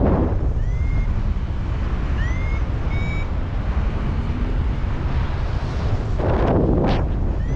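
Strong wind buffeting a paraglider pilot's microphone, swelling in two gusts, at the start and again about six seconds in. Over it a flight variometer gives three short rising beeps in the first half, its signal that the glider is climbing in lift.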